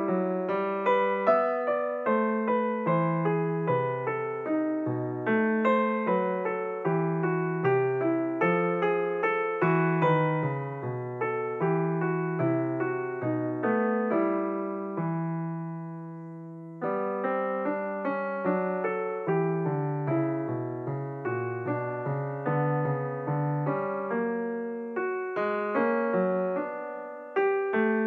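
Background piano music: a flowing run of notes. About halfway through, one chord is held and dies away for a couple of seconds before the playing starts again.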